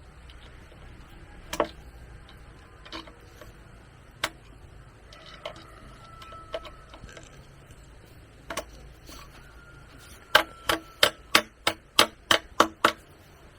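Scattered single knocks of a hand tool striking bamboo, then a quick run of about nine sharp blows near the end, three or four a second, as in hammering or chopping.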